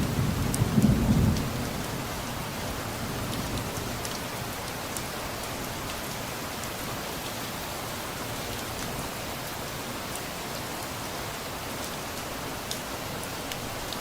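Steady rain falling, with a low rumble of distant thunder that dies away within the first couple of seconds. A few sharp drops tick now and then over the rain.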